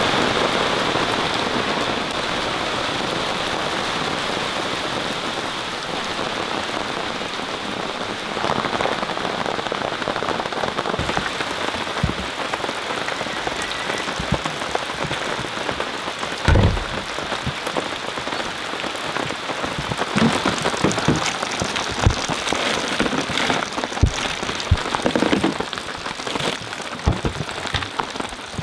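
Steady rainfall hissing, with single heavier drops ticking and knocking against a surface, more often in the second half, and one heavier thud about halfway through.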